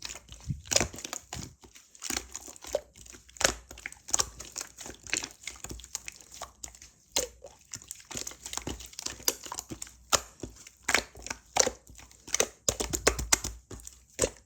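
Slime being squished and pressed by hand, giving a dense run of irregular crackling clicks and pops.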